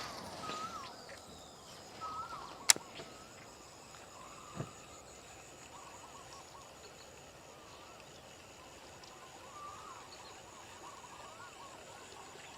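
Birds calling repeatedly in short curved chirps, with one sharp click about three seconds in.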